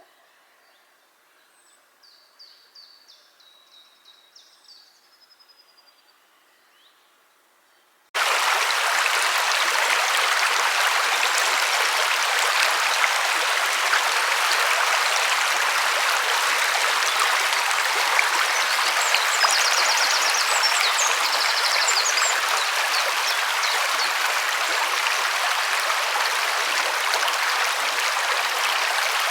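A bird sings a short run of quick notes over near-quiet. About eight seconds in, the steady rush of a river's flowing water cuts in abruptly and carries on evenly, with a bird chirping faintly above it near the middle.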